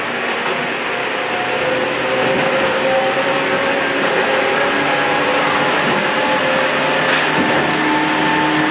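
Toyama Chiho Railway 14760-series electric train running between stations, heard from on board: a steady rumble of wheels on rail with whining tones from the motors and gears that shift in pitch. It gets louder about two seconds in, and there is a single light tick near the end.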